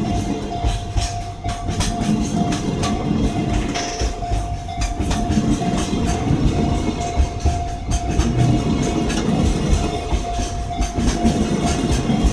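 Freight train passing, its wagons clattering rhythmically over the rail joints, with a steady high-pitched tone held throughout.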